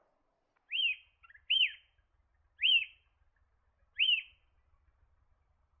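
Yellow honeyeater calling: four loud, short whistled notes, each rising then falling, spaced about a second apart.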